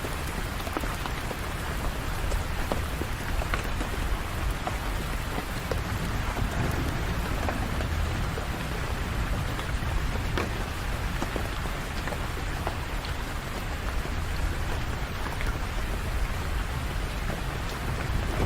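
Steady rain falling on hard surfaces, with single drops ticking here and there over a low rumble.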